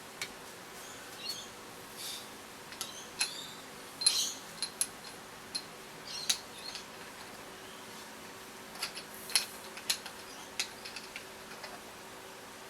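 Irregular small metallic clicks and taps as a motorcycle fork's top cap and preload adjuster are handled and fitted onto the fork tube.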